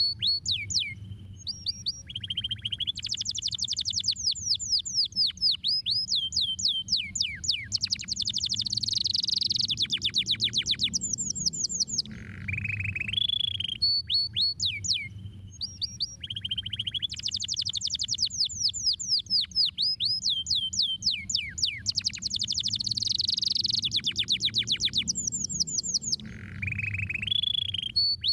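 Domestic canary singing: rapid trills of quick falling whistled notes, with short steady whistles between them. The same song phrase repeats about every 14 seconds, as a looped recording would. A faint low hum runs under the song.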